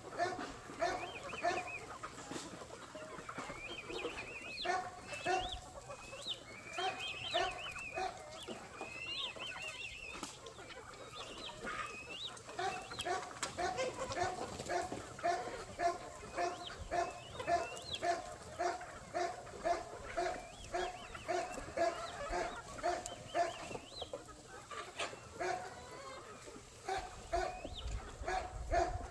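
A flock of chickens clucking, with a steady run of clucks about two a second through the middle and higher, rising calls in the first few seconds.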